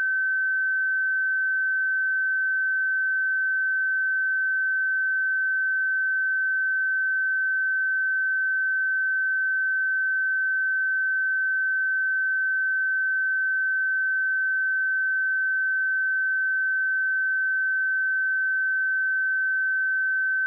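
A pure 1537 Hz sine-wave test tone, held at one steady pitch and level.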